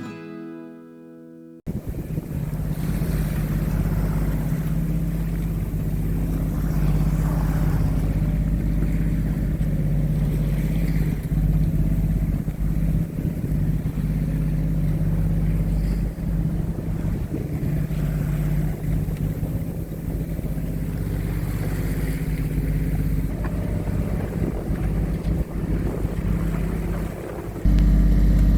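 Sailboat's inboard engine running steadily under way, a continuous low drone with wind and water noise over it. About a second and a half in it cuts in abruptly, and near the end it jumps suddenly to a louder, deeper engine sound.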